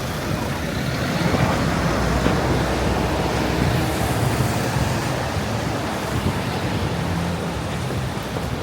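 Steady wash of city street noise in the rain: traffic and tyres hissing on wet pavement, swelling a little early on as vehicles pass.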